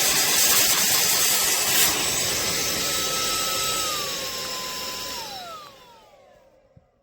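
Minthouz cordless handheld vacuum running with a loud whoosh and motor whine. About two seconds in there is a click, after which it runs a little quieter. Its pitch then steps down and falls as the motor is switched off and winds down to a stop near the end.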